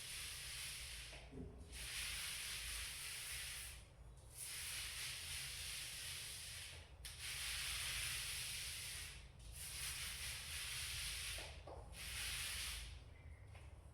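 Paint being spread thickly on a wall in long strokes: a hissing, rubbing sound that comes in runs of two to three seconds, with a short break between each stroke.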